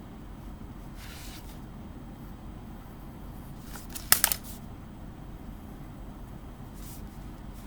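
Pencil scratching lightly on drawing paper, with a brief sharp clatter of clicks about four seconds in, over a steady low hum.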